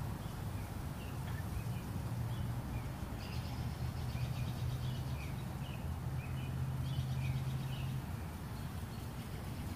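Evening outdoor ambience: scattered short bird chirps, with two stretches of a rapid higher-pitched trill, over a steady low hum that fades a little near the end.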